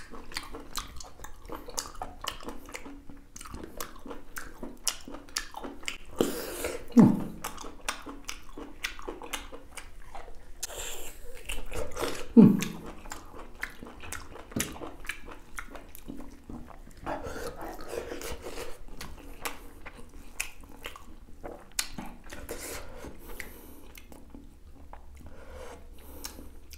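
Close-up chewing and wet mouth clicks of someone eating beef innards such as tripe and intestine in gravy, a steady run of small smacks and bites.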